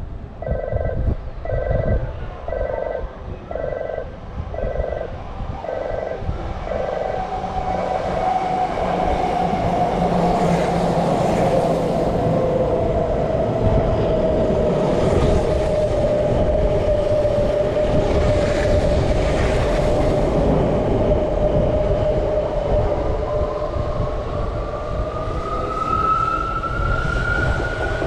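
A platform approach warning tone pulses about three times every two seconds for the first seven seconds. Then an electric commuter train pulls in, its inverter motor whine falling slowly in pitch as it brakes over rumbling wheel and rail noise. Near the end a rising whine sets in as a train accelerates.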